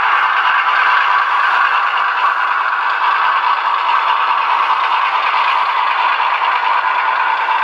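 An OO scale model locomotive running along the track with a steady rattle of wheels and mechanism.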